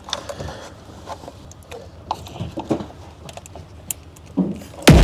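Light knocks and rattles as a crash-damaged car's door is handled, then a loud slam near the end as it is forced shut; the door is bent and won't close properly.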